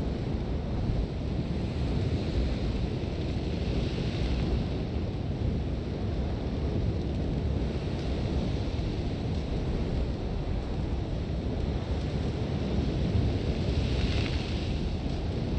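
Sandstorm wind: a steady low rumble of gusting wind, with swells of hissing blown sand about two seconds in and again near the end.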